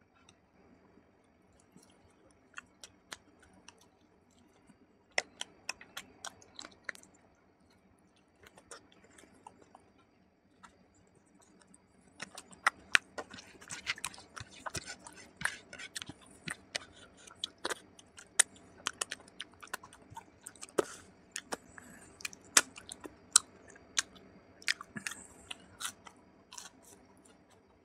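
Close-miked eating sounds: wet chewing and lip smacks, a few scattered clicks at first, then dense chewing from about halfway through. Near the end he bites into a fried pumpkin pakora.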